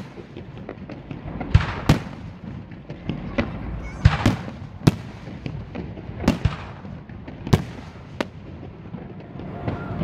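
Aerial fireworks shells bursting overhead: a loud bang every second or two, with lighter crackling between them.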